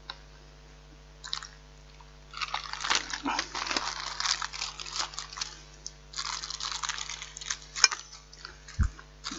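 Plastic film lid being peeled off a hot microwave-meal tray: crinkly, crackling tearing in two long pulls, then a sharp click and a soft low thump near the end.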